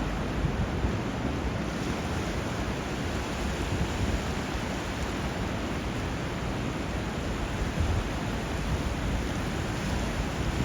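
Steady rushing water of sea surf mixed with flowing river water.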